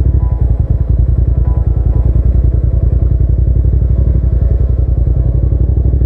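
Hyosung GT650's V-twin engine running at a steady road speed while being ridden, a loud low throb with a dense, even pulsing.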